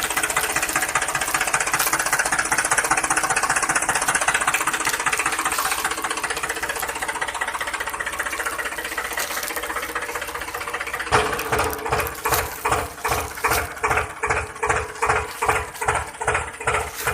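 Toy vehicle running with a steady motor buzz, then about eleven seconds in switching suddenly to a rhythmic chugging of about three beats a second.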